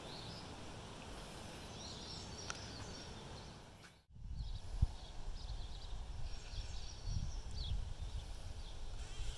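Rural outdoor ambience with small birds chirping now and then. The sound drops out briefly about four seconds in, then comes back with a low, uneven rumble under the chirps.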